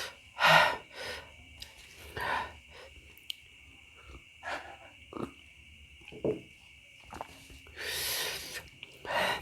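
Close-miked mouth noises from a person eating very spicy meatballs: a string of short, sharp breaths and hisses through the mouth, with a longer drawn breath about eight seconds in.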